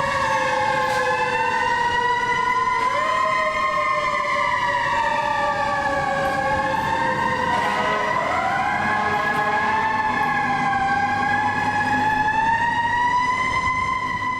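Responding fire apparatus sirens wailing, more than one at once, their pitch rising and falling slowly with fresh rises a few seconds in and again about halfway. A steady engine rumble runs underneath.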